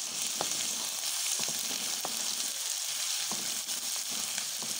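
Browned sliced onions and ginger-garlic paste sizzling steadily in hot oil. A wooden spoon stirs them and now and then gives a short scrape or tap against the metal pan.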